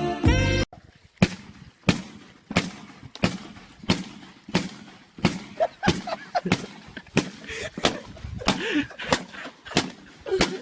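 Background music cuts off abruptly, followed by a steady series of sharp knocks, about three every two seconds.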